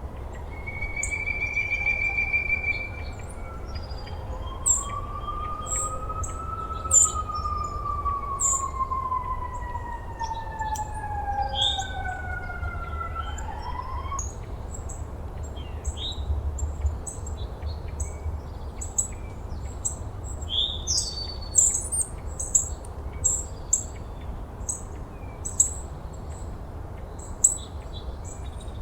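Small birds chirping in many short, high calls throughout. In the first half a long wailing tone rises and then falls slowly, with a steady low rumble beneath.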